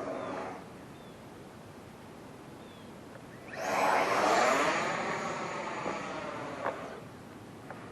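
Freewing Yak 130 RC electric ducted-fan jet flying by: its whine swells about three and a half seconds in, peaks, and drops in pitch as it passes, then fades away.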